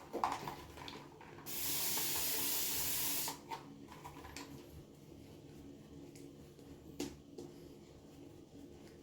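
A short run of water hissing for about two seconds, starting and stopping abruptly, as more water is added to the shaving lather. A few light clicks come near the start and once later.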